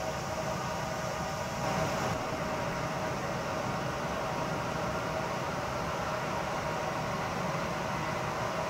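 Steady hum and hiss of a town's background noise, with a distant electric limited express train running along the line far off. The train adds no clear rise in loudness as it passes.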